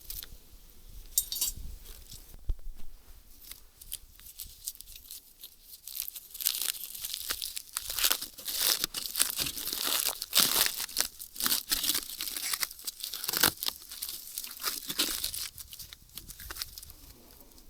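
Crinkling and tearing of a wrapping handled by hand, in a busy run of crackles that is loudest through the middle stretch.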